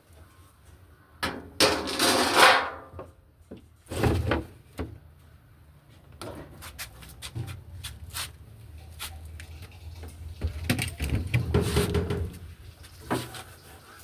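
A run of handling noises: clicks, knocks and scraping, loudest about two seconds in and again around eleven to twelve seconds in.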